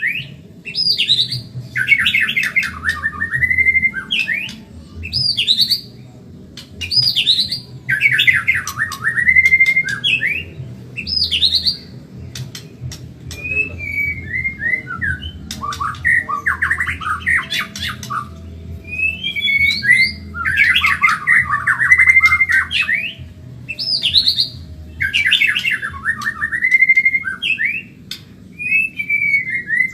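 White-rumped shama (Medan murai batu) singing fast, loud phrases every two to three seconds: rapid chattering trills mixed with whistles that swoop up and down, over a steady low hum.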